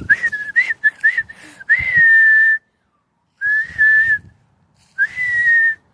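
A person whistling: a run of short chirps, then three long, steady notes, each held for just under a second with pauses between.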